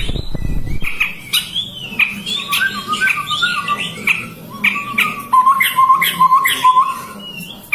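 Chestnut-rumped babblers calling: a run of short, repeated notes mixed with harsh, squawky chattering. A brief low rumble sounds at the very start.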